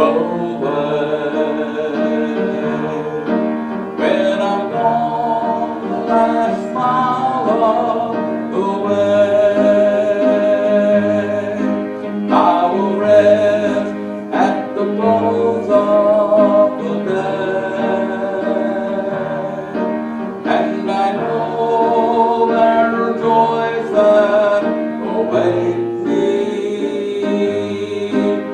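Congregation singing a hymn with instrumental accompaniment, sustained notes over a moving bass line.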